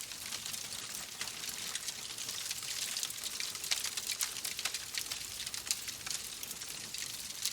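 Steady rain: a dense hiss with many small, irregular drop ticks scattered through it.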